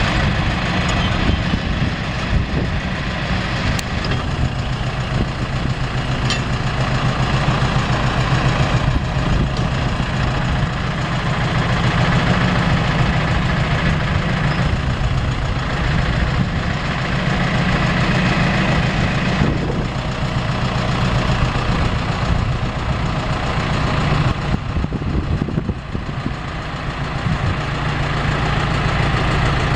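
A John Deere 410 loader backhoe's engine running steadily, its level easing and picking up again a few times.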